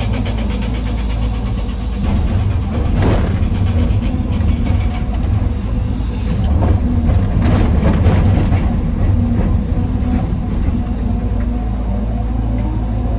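Heavy diesel machinery running steadily as an excavator loads stone into a dump truck. The engine grows louder from about two seconds in, with noisy rushes about three seconds in and again around seven to eight seconds in.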